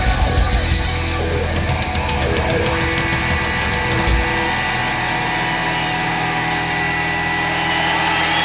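Live heavy rock band at the end of a song: the drums and guitars crash through the first second, then held guitar and bass notes ring on, with a steady high feedback-like tone.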